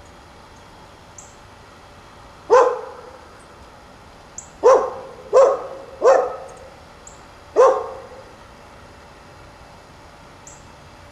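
A crow cawing five times, one harsh caw and then four in a loose series, with faint high chirps from a small bird between them.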